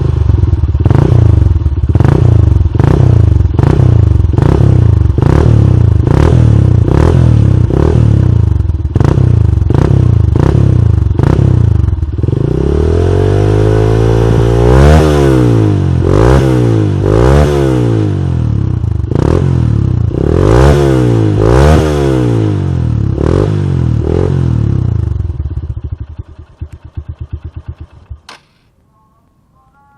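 Honda New Megapro's 150 cc single-cylinder engine breathing through a custom small-bike muffler with a deep bass tone, revved in quick repeated throttle blips a little more than once a second, then in longer rising and falling revs. It dies away and stops a couple of seconds before the end.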